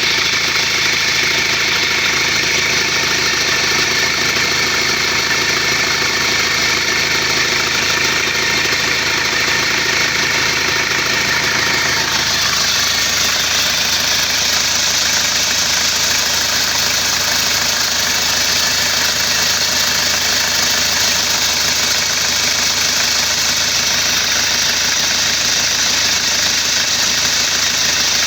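Isuzu Panther's diesel engine idling steadily, with its exhaust freshly fitted with a new gasket and being checked for leaks. About twelve seconds in, the sound changes, with less rumble and more hiss.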